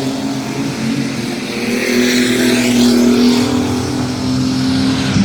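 Mini truck race trucks running at racing speed on the track, their engines at high revs, getting louder about two to three seconds in as trucks pass.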